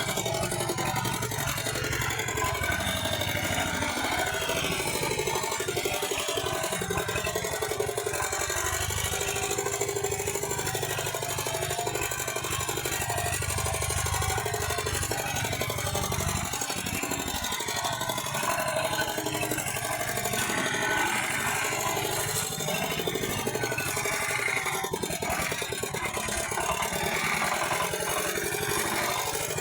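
Walking tractor's engine running steadily.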